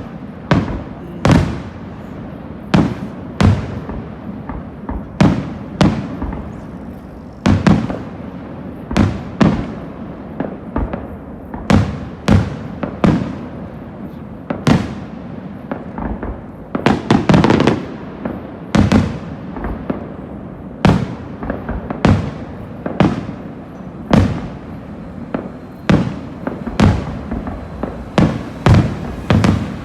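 Aerial firework shells bursting one after another in a fireworks display, a sharp bang every second or so. The bangs come in a denser flurry about two-thirds of the way through.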